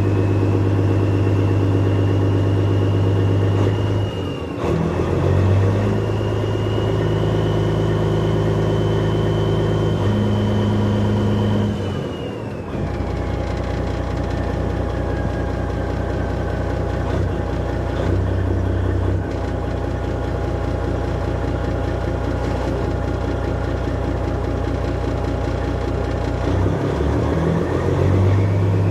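Kenworth truck's tuned Detroit Diesel Series 60 straight-six running through 8-inch straight pipes, a loud steady deep drone. The note briefly drops and changes pitch about 4, 12 and 27 seconds in, and a high whine rises and falls above it.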